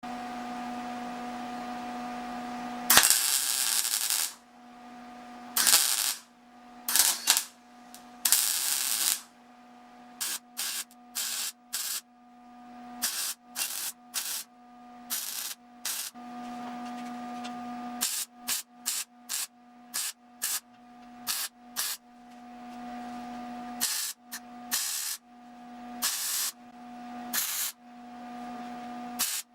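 Arc welding the exhaust pipe joints in short bursts: a hissing crackle starting and stopping again and again, the first burst about three seconds in being the longest and loudest, with a steady electrical hum between bursts.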